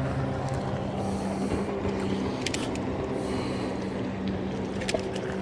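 An engine running steadily at a low, even pitch, with a couple of short sharp clicks about two and a half and five seconds in.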